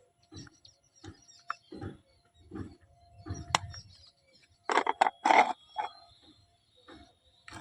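Toy kitchen pieces and their packaging being handled: a run of light taps, clicks and rustles. There is one sharp click about three and a half seconds in, and a louder crinkling rustle about five seconds in.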